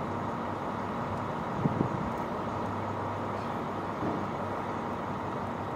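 Steady vehicle engine and traffic noise with a low hum, broken by a couple of short knocks a little under two seconds in.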